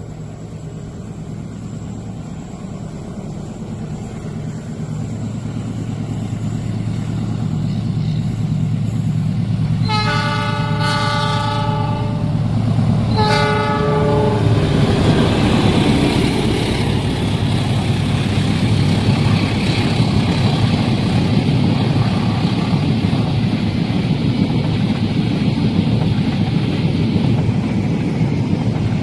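Diesel locomotive approaching, its engine drone growing steadily louder, then sounding its horn: one long blast about ten seconds in and a shorter one just after. The train then passes close by, with loud rumbling wheel and rail noise.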